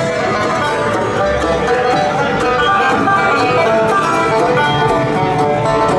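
Bluegrass music with a plucked banjo and guitar, playing steadily.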